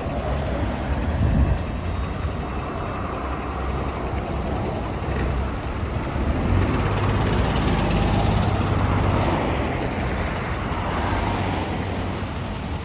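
Cabin noise of a Yutong ZK6128HG diesel city bus under way: steady engine rumble and road noise. A thin high whine starts near the end.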